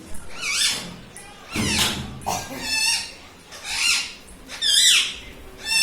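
Pet parrot calling: a run of about six short, harsh calls, roughly one a second, each bending up and down in pitch.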